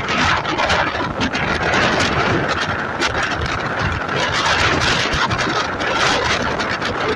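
MEMU electric train running on the line, heard from on board: a steady rush of wind on the microphone with a constant rattle and clatter from the wheels and coach.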